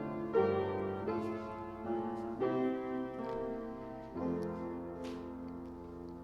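Piano playing slow chords, a new chord struck about every second. The last chord comes about four seconds in and is left to fade.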